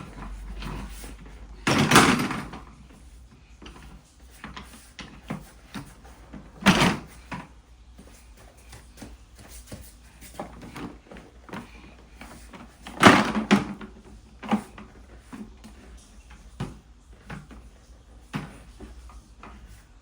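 Small toy cars being handled and knocked about, with irregular small clicks and clatter and three louder knocks about two, seven and thirteen seconds in.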